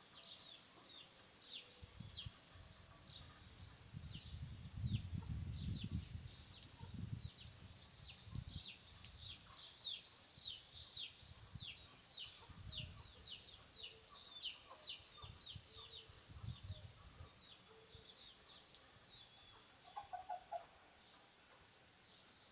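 Small birds chirping over and over in quick falling notes, over an uneven low rumble in the first part. A hen gives a short cluck near the end.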